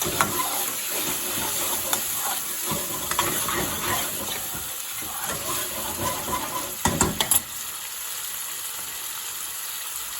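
Curry base gravy sizzling and bubbling in hot oil with chicken and spices, stirred in the pan with a chef's spoon. A quick cluster of sharp clatters, spoon against pan, about seven seconds in.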